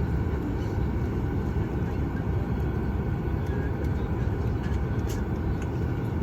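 Steady low rumble and air rush inside a Boeing 737 MAX 8 cabin at the gate before departure, with a faint hum and a few soft clicks.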